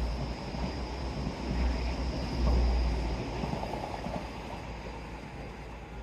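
Wind rumbling and gusting, swelling twice and then slowly fading out.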